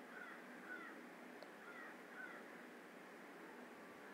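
Faint bird calls in the background: short chirps repeating about twice a second.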